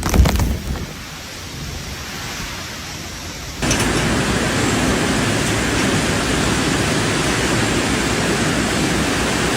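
Heavy rain and wind in a cyclone. A loud crackling burst fades out within the first second and quieter rain follows; about three and a half seconds in, a new clip starts abruptly with a louder, steady rush of rain and wind.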